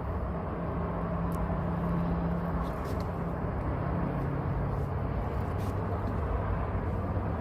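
A low, steady engine-like hum over a rumble of outdoor traffic-type noise; the hum drops in pitch about three to four seconds in, with a few faint clicks.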